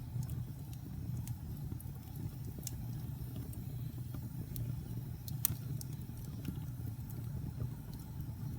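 Wood fire burning in a fireplace: irregular sharp crackles and pops over a steady low rumble, with the loudest pop about halfway through.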